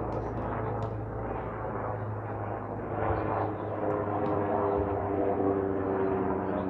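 An aircraft passing overhead: a steady drone with several held tones that grows louder from about three seconds in.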